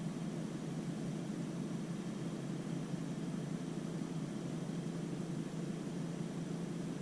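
Toyota 86's 2.0-litre flat-four boxer engine idling steadily with the car stationary, heard from inside the cabin as a low, even hum.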